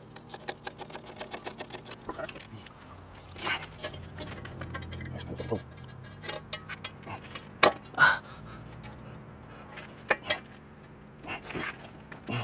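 Metal clinking and rattling of tools and exhaust hardware being handled while an exhaust is fitted, with many small clicks and two sharper metallic knocks about eight seconds in.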